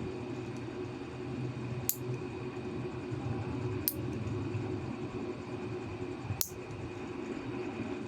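Three sharp snips of a nail clipper cutting through thick toenail, about two seconds apart, over a steady background hum.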